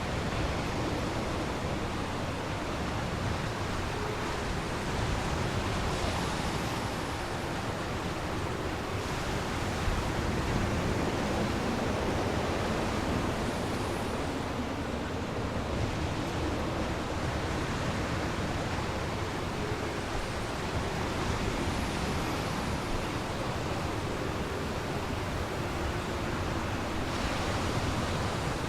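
Storm waves on a large lake whipped up by strong wind: a steady rushing noise that swells every several seconds.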